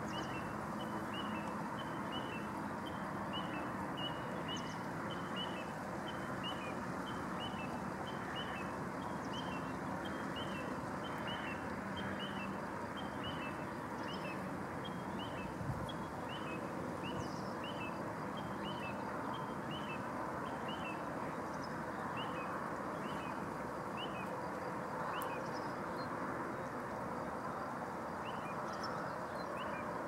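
A bird calling a short, high note over and over, about twice a second, against a steady background rush.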